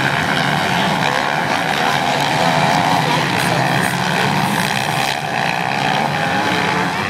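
Many motocross motorcycle engines running at high revs together, a loud, dense and steady drone of overlapping wavering engine notes.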